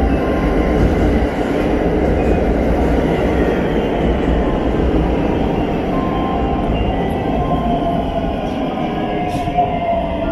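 JR West 521 series electric local train pulling in along the platform and slowing, a steady rumble of wheels and running gear. Near the end a thin whine that shifts in pitch comes in as the train brakes to a stop.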